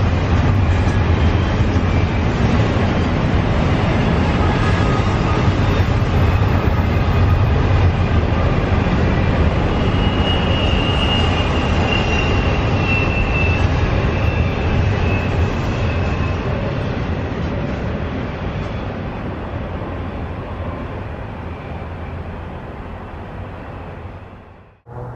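Norfolk Southern double-stack intermodal freight train rolling past: a steady rumble of wheels on rail with a strong low hum and a faint high wheel squeal around the middle, fading away over the last several seconds as the end of the train passes. It cuts off suddenly at the end.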